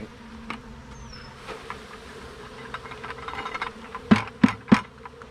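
Honey bees buzzing steadily, with three loud knocks in quick succession about four seconds in.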